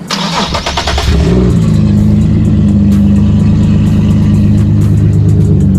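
Turbocharged 2015 Nissan 370Z Nismo's 3.7-litre V6 being started: about a second of rapid cranking rattle, then it catches and settles into a loud, steady idle, blowing straight out of an open turn-down pipe with no exhaust system.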